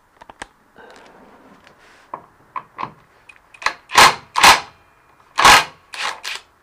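Hand tools and metal parts knocking and clanking during spin-bike disassembly: a run of light clicks, then three loud knocks in the second half and a few lighter ones after.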